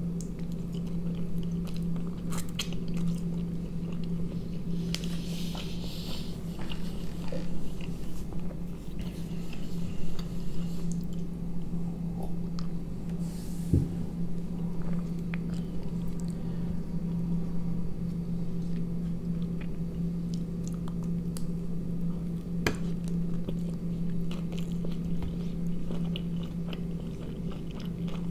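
Close-up eating sounds: a person biting into and chewing a toasted tortilla roll filled with sausage, cheese and sauce, with wet chewing and scattered crunches. A steady low hum runs underneath.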